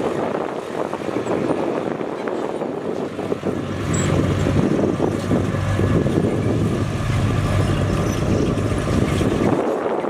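Komatsu bulldozer's diesel engine running while working, with a heavier low rumble under load from about four seconds in that eases near the end.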